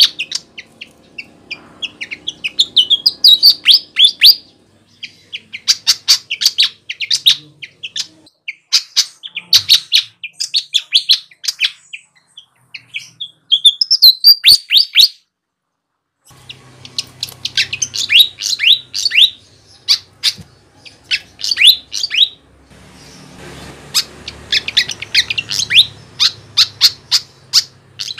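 Sikatan (flycatcher) singing energetically: phrases of rapid, high, sweeping chirps, each a second or two long, separated by short pauses, with a brief complete break about halfway.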